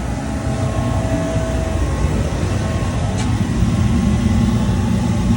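Steady low rumble of a running engine, swelling louder a little past halfway through.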